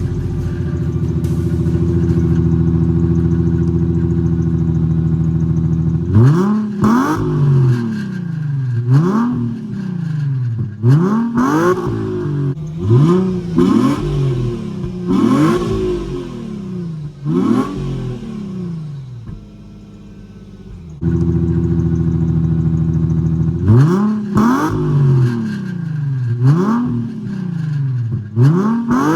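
Infiniti G35's VQ35HR V6 with its mufflers deleted, idling steadily, then revved in a long run of quick throttle blips, each rising and falling sharply. After a short lull it settles back to idle and is blipped several more times.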